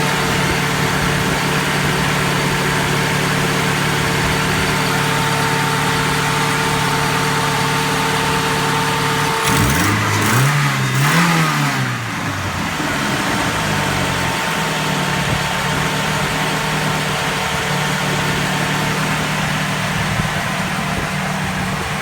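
Ford 2.3 L turbo four-cylinder with a Volvo B234F twin-cam head idling steadily. About halfway through it is revved twice in quick succession, the pitch rising and falling back to idle.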